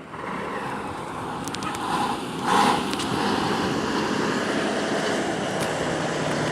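Diesel engine of a Scania coach running, with street traffic noise around it; a brief louder rush about two and a half seconds in.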